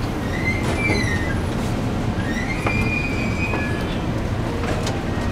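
JR Central 313 series electric train braking into a station, heard from inside the carriage: a steady low rumble from the wheels and running gear, with high squeals that slide in pitch, twice.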